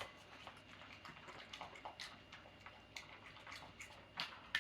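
Faint, irregular small clicks and taps from puppies moving about.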